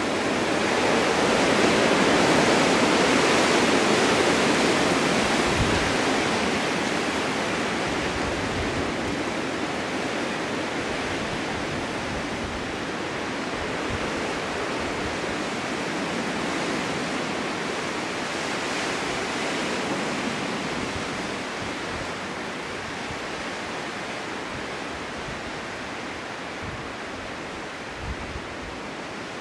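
Strong wind blowing through a snowy forest meadow as a steady rushing noise, swelling in a gust a couple of seconds in and then slowly easing, with a few faint low buffets.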